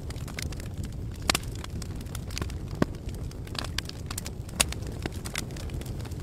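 Wood campfire crackling and popping, with many small snaps and three sharper pops (about a second in, near the middle and a little past two-thirds through), over a steady low rumble.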